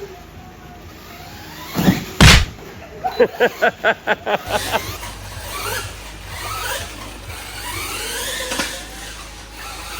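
Electric RC trucks racing, their motors whining up and down in pitch as the throttles are worked. About two seconds in come two loud knocks, followed by a quick run of about eight short pulses.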